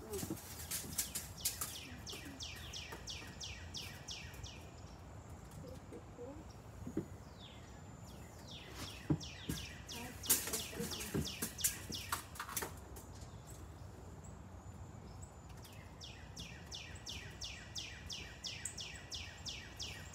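A songbird singing three long runs of quick, downward-sweeping chirps, about four or five a second, with a few knocks in the middle.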